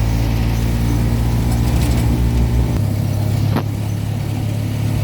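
Old Mitsubishi Minicab's small engine running steadily as the van drives along. The engine note changes about three seconds in, and there is a single brief click shortly after.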